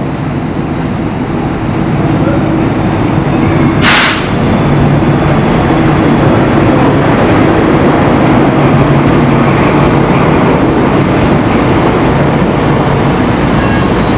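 Diesel locomotive passing close by, its engine running with a steady low hum that grows louder about two seconds in as it draws level, followed by its passenger cars rolling over the rails. A short hiss about four seconds in.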